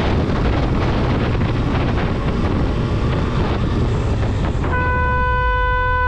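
Motorcycle riding in traffic, with steady engine rumble and wind rush on the microphone. About four and a half seconds in, a horn sounds one steady, held blast lasting over a second.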